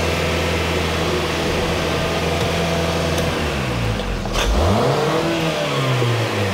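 Kia car engine running steadily at about 2,500 rpm, the accelerator pinned to the floor by a pedal jack, its software-limited maximum in park during an engine flush. About three seconds in, the revs fall and waver as the pedal is freed, with a single knock about four seconds in.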